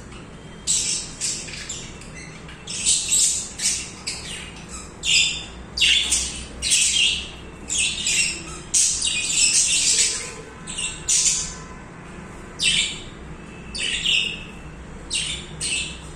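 Pet budgies chirping and squawking in short, harsh bursts that come irregularly, one or two every second, with brief pauses between.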